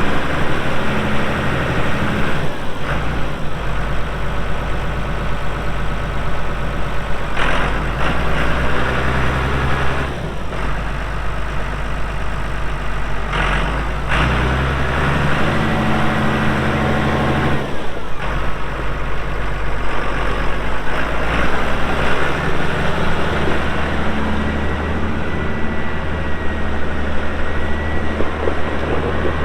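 Challenger MT535 tractor's diesel engine running, its note shifting several times as it is worked. A few sharp knocks are heard, and a thin steady whine comes in near the end.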